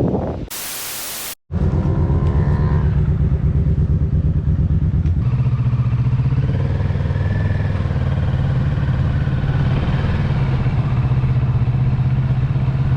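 A second of hiss near the start, then a motorcycle engine running steadily under way. Its note changes about five seconds in.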